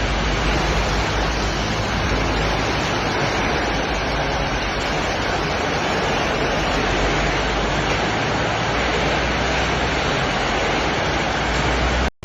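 Steady roar of heavy rain and strong wind during a tropical storm, stopping abruptly near the end.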